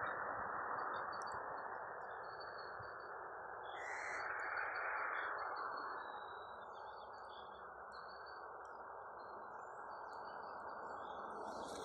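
Songbirds chirping, with many short high notes scattered throughout, over a steady low rushing background noise that swells briefly about four seconds in.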